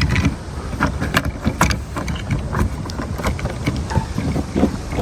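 Wind rumbling and buffeting on the microphone, with scattered light clicks and taps from a diecast toy truck being handled.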